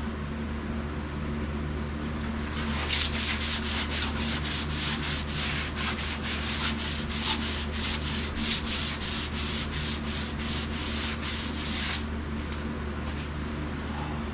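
Sandpaper worked back and forth by hand over old paint on a vehicle body panel, in quick even strokes about three a second. It starts about three seconds in and stops a couple of seconds before the end, over a steady low hum.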